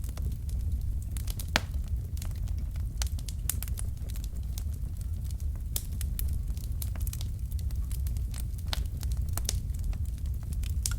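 Wood fire burning in a fireplace: logs crackling with irregular sharp snaps and pops over a steady low rumble of the flames, one louder pop about a second and a half in.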